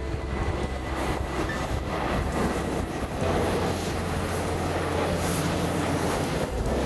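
Jet airliner's engines at takeoff thrust: a steady, loud rumble and roar.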